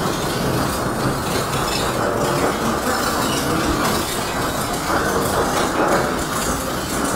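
Freight train rolling past: a steady, dense noise of wheels and cars on the rails, with faint irregular clicks.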